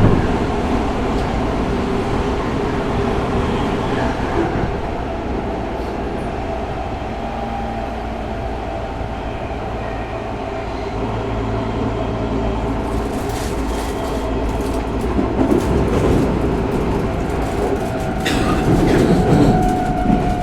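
Running sound inside a Tokyo Metro 05 series subway car with a Mitsubishi IGBT VVVF inverter: a steady rumble of wheels on rail with faint motor tones. From about two-thirds of the way in, the wheels click over rail joints, and near the end a single tone glides slowly down.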